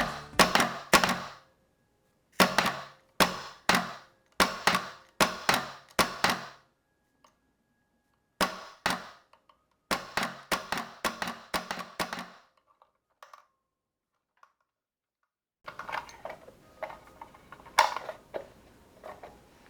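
Hitachi WF4H high-pressure pneumatic screw driver firing over and over: sharp shots in quick runs with short pauses between. A faint hiss with a few more shots comes in over the last few seconds.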